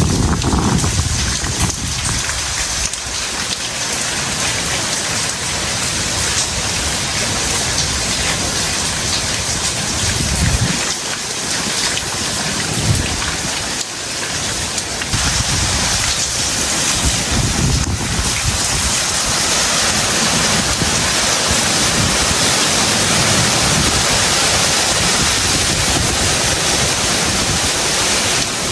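Heavy tropical rain pouring steadily, a dense even hiss, with a few brief low rumbles now and then.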